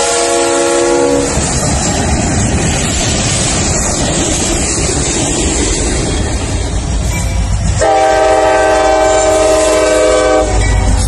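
Diesel locomotive air horn sounding a chord that cuts off about a second in, then freight cars rolling past with wheels clattering on the rails. The horn chord sounds again for about three seconds near the end, leaving a low rumble from the passing train.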